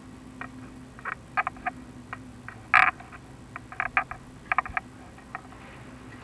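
Chimney inspection camera knocking and scraping against the clay flue tiles as it is lowered down the flue: a string of irregular short clicks in small clusters, with one louder, longer scrape about three seconds in, over a faint steady hum.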